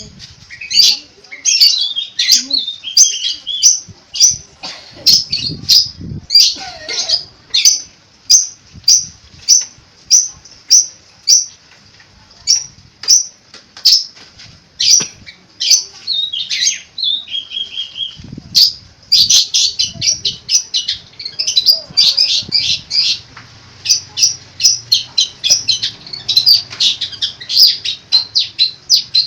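Long-tailed shrike (cendet) singing a long, varied song of short, sharp notes, the mimicked 'isian' phrases of a bird in full song. The notes come spaced out at first, then in dense, fast runs near the end.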